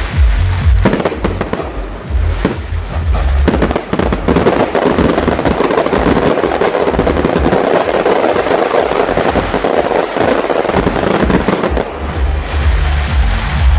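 A fireworks display: a run of bangs, then a dense barrage of crackling bursts from about four to eleven seconds in, then separate bangs again, with music playing underneath.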